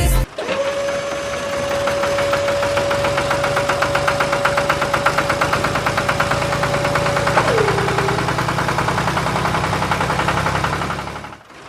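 A small motor or engine running steadily with a fast, even knocking rattle, and a steady whine that drops in pitch about seven and a half seconds in.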